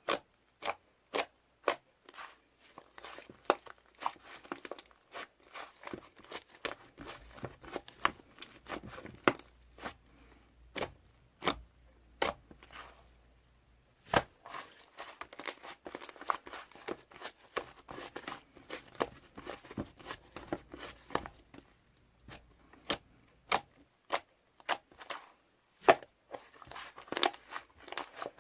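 Irregular sharp clicks and taps mixed with crinkling and rustling, as of small objects or packaging being handled close by, several a second at times with a brief lull about halfway through.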